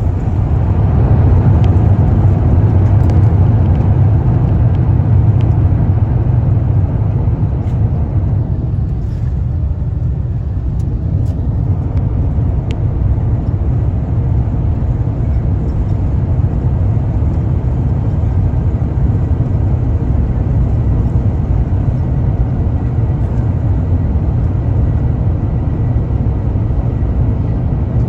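Airbus A350-1000 airliner with Rolls-Royce Trent XWB engines, heard from inside the cabin: a steady, loud low roar and rumble from the engines, easing slightly about eight seconds in.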